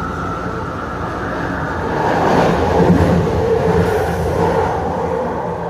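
JFK AirTrain car running along its guideway, heard from inside the car: a steady rumble with a constant hum that swells louder for a couple of seconds midway.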